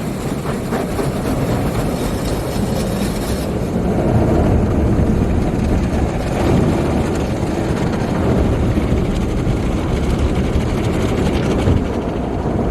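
Car wash tunnel equipment running with a loud, steady roar, heard from inside the car; about three and a half seconds in the upper hiss drops away and a deeper roar carries on.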